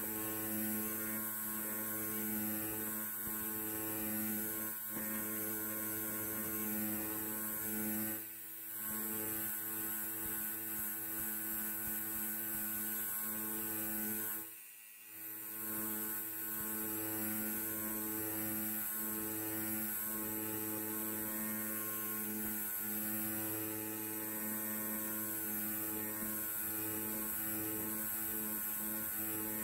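Electric hair clipper running with a steady buzzing hum, dipping briefly twice, about eight and about fifteen seconds in.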